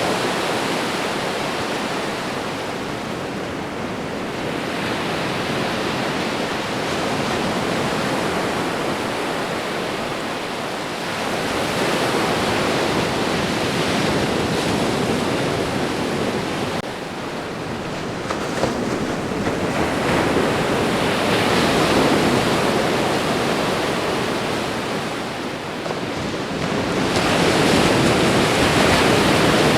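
Ocean surf washing onto a shore: a continuous rush of breaking waves that swells and eases every several seconds.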